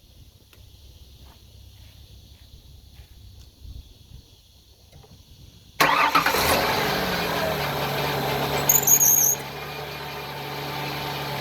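The 2000 Ford Windstar's 3.8 L V6 starts from cold about halfway in, catching suddenly and running at a fast idle whose pitch drops and then levels off to a steady idle. A brief high-pitched squeal sounds a few seconds after the start. The first half is quiet apart from a few faint clicks.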